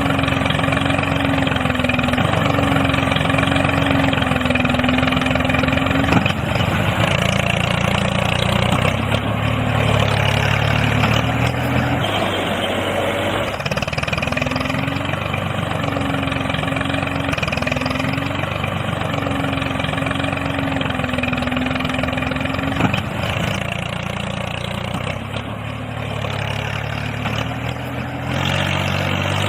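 A motor running continuously, its pitch wavering up and down in repeated swells.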